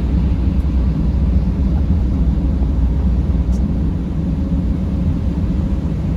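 A vehicle driving: a steady low rumble of engine and tyres on the road.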